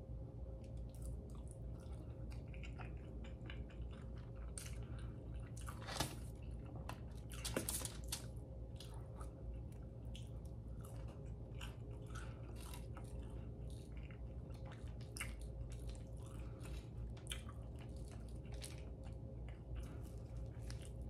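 Close-up chewing and mouth sounds of a person eating scrambled eggs, bacon and sausage: frequent small wet clicks and smacks, with a couple of louder sharp crackles about six and seven and a half seconds in, over a faint steady hum.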